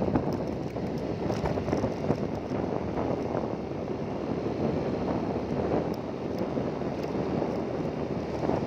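Steady wind buffeting the microphone, a dense low rushing noise with a few faint clicks.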